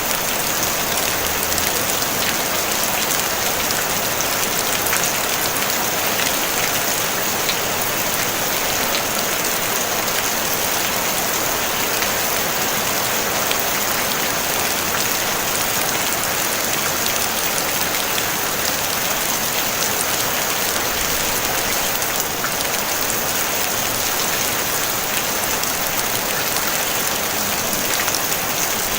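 Steady rain falling on a tin roof, a dense even hiss of many fine drop ticks with no thunder.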